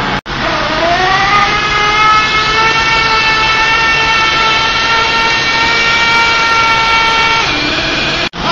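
Small nitro engine of an RC monster truck winding up to high revs and held wide open under load while pulling the sled; a steady high-pitched whine. It starts just after an abrupt cut, climbs in pitch over the first second or so, holds steady, dips near the end and stops abruptly.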